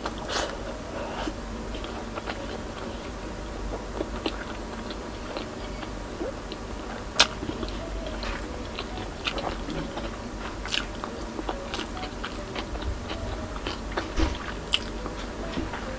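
Close-miked chewing and mouth sounds from a person eating fish by hand: wet smacks and scattered short, sharp clicks and crunches, the loudest about seven seconds in. A steady low hum runs underneath.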